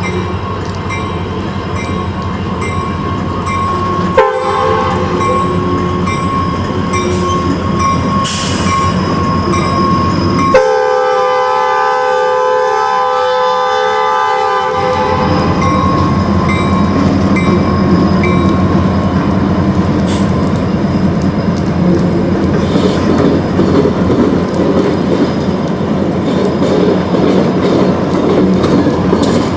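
Diesel locomotive air horn sounding for the first half, its chord changing about 4 and 10 seconds in and fading out around 15 seconds. Then the train rolls past, wheels clattering over the rails, in a steady rumble.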